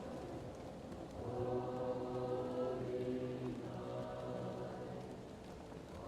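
Choir singing slow, held chords, muffled as if heard from another room, with the chord changing a couple of times. Faint fireplace crackling underneath.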